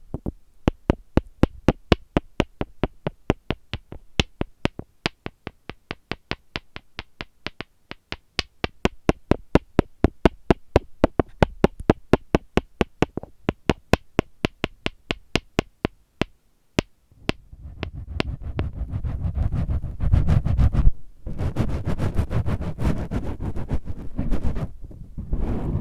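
Quick, sharp taps on an oil bottle, about four a second, with short pauses. About 17 seconds in they stop and give way to a loud, low rubbing rustle of a microphone windscreen being scratched and rubbed against the mic.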